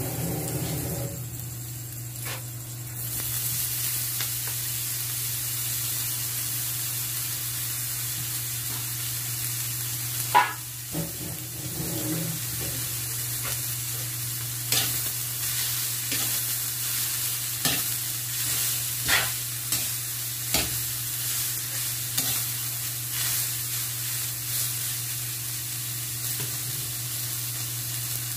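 Shredded banana heart frying in an aluminium wok, with a steady sizzle that grows louder about three seconds in. A utensil stirs and knocks against the pan now and then, the sharpest knock about ten seconds in.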